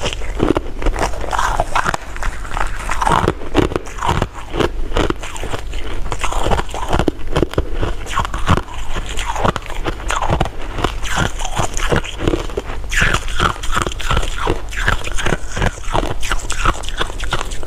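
Close-miked eating sounds of sweets being bitten and chewed: a dense, continuous run of sticky clicks and crunchy crackles.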